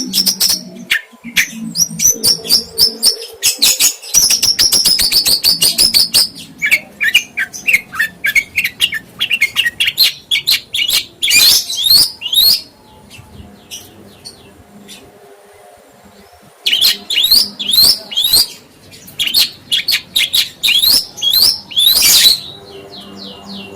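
A songbird singing a fast, varied chattering song of rapid trills, clicks and sweeping chirps, with a brief lull about halfway through before the song resumes.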